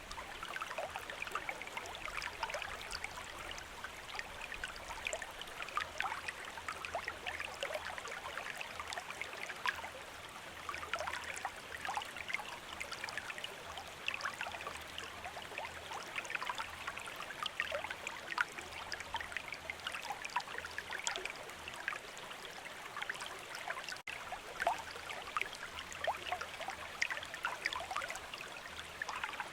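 A river running steadily: a continuous babbling of water with many small splashes and gurgles.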